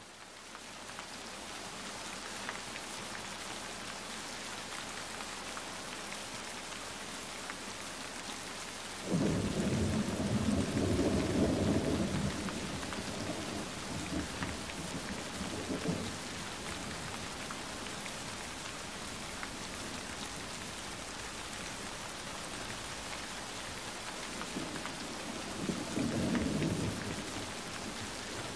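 Steady rain falling, a continuous hiss, with spells of low rumbling about nine seconds in, again around fourteen seconds, and near the end.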